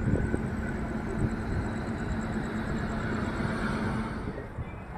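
Passenger train coach rumbling along the rails, heard from an open door, with a steady hum that stops about four seconds in. The noise dies down as the train slows to a stop at a station.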